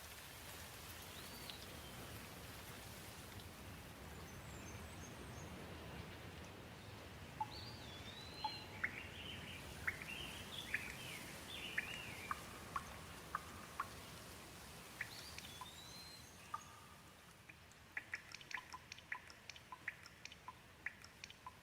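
Gentle steady rain with birds calling over it: several rising-and-falling chirps and a burst of quick twittering in the middle. Near the end the rain eases slightly and a quick run of sharp ticks and drips sounds.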